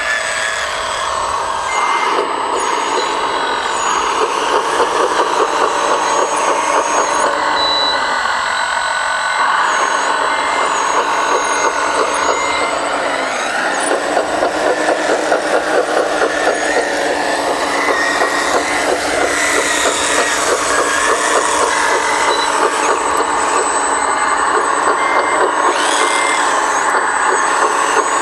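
Radio-controlled scale hydraulic construction machines working: a steady mechanical running sound with a fast pulse, its pitch rising and falling several times as they work. Short reversing beeps sound now and then.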